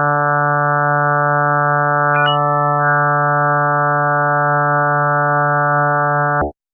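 Steady electronic drone, one held pitch with many overtones, of the kind offered as a planet's 'sound' in space-sound compilations. A short higher blip breaks in about two seconds in, and the drone cuts off near the end with a quick drop in pitch.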